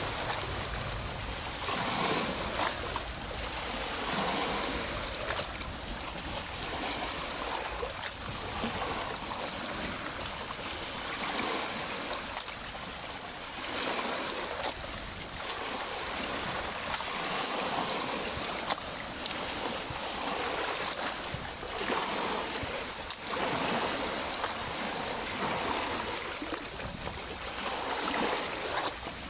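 Small lake waves lapping and splashing at the water's edge, washing in with irregular swells every few seconds.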